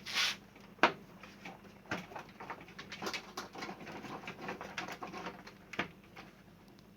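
Clicks, taps and light knocks of plastic casing parts and screws being handled while a small air cooler is taken apart. The loudest are a sharp click just under a second in and a short hiss at the very start.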